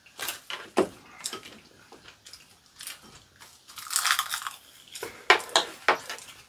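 Close-miked eating: biting and chewing mouthfuls of rice wrapped in crisp roasted seaweed (gim), with irregular crunches and a few sharp clicks. There is a dense run of crunching about four seconds in.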